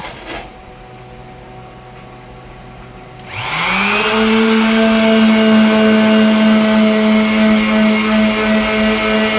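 Electric sander switched on about three seconds in, its motor spinning up quickly to full speed and then running steadily with a loud, even hum.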